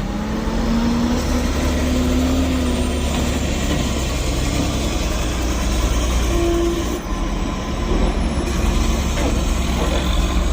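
Heavy logging truck's diesel engine running under load, a steady deep drone, with a faint held engine tone that rises slightly and fades out a few seconds in.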